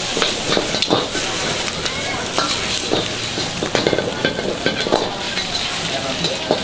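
Food sizzling in a wok during stir-frying, a steady hiss with scattered short clicks of cooking utensils.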